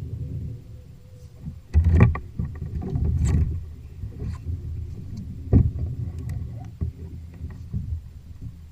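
Knocks, bumps and rustling against a fishing kayak over a low rumble of wind and water, with a louder stretch of handling around two and three seconds in and a single sharp knock about five and a half seconds in.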